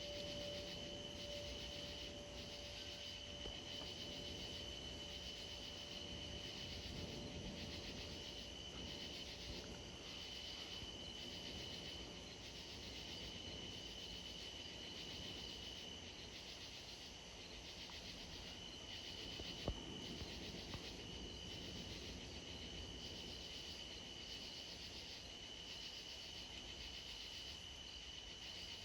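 Night insects, crickets among them, trilling steadily and faintly. A single low chime note rings and dies away in the first few seconds, and one sharp click comes about twenty seconds in.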